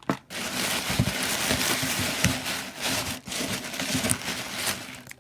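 Packaging crinkling and rustling as items are taken out of a mail order, with a short break about three seconds in and a few soft knocks.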